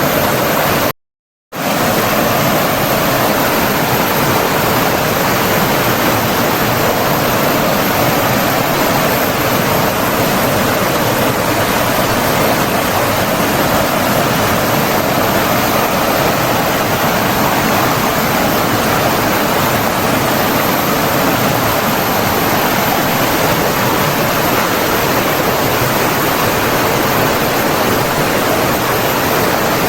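Rushing water from a stream or waterfall, a steady, even, loud rush. It cuts out to silence for about half a second about a second in, then resumes unchanged.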